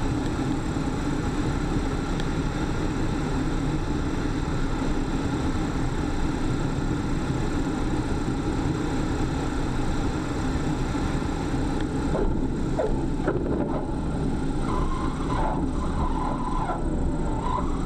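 A car driving steadily at road speed, with a continuous engine and road rumble. Faint short, wavering higher sounds join in over the last few seconds.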